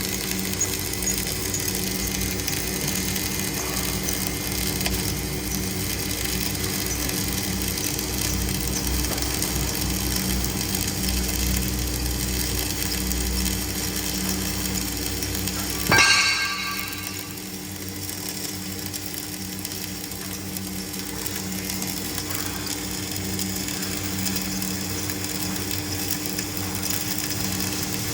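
Welding machinery running with a steady mechanical crackle and hum. About halfway through, a single sharp metallic strike rings briefly and fades.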